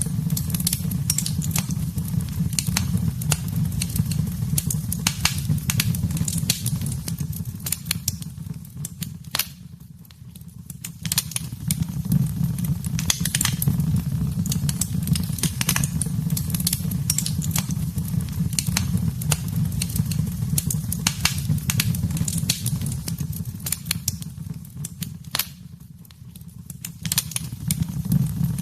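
Wood fire burning in a fireplace: a steady low rumble of flames with frequent sharp crackles and pops. The fire briefly goes quieter twice, about ten seconds in and near the end.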